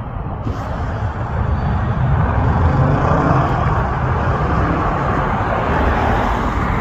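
Road vehicle noise: a steady rumbling roar that builds over the first two seconds and then holds.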